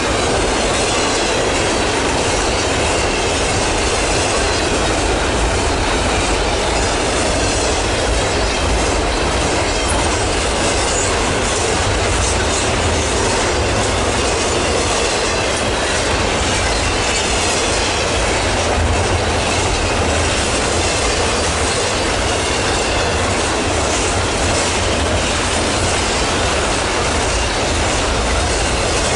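Norfolk Southern freight train cars rolling steadily past, wheels rumbling and clattering on the rails, with a faint high wheel squeal over the top.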